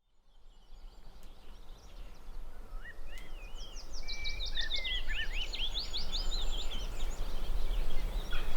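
Birdsong: a fast, varied run of quick rising and falling whistled notes, fading in over the first seconds, over a low steady rumble.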